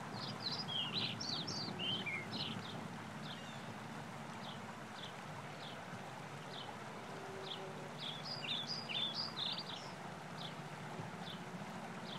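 A songbird singing outdoors: two short bursts of quick, varied high notes, about a second in and again about eight seconds in, with single high chirps between them. Under the song runs a steady low background rumble.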